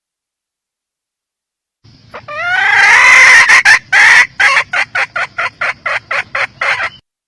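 Red junglefowl hen calling, starting about two seconds in: a loud drawn-out squawk, then a run of short clucks, about five a second, that stops suddenly.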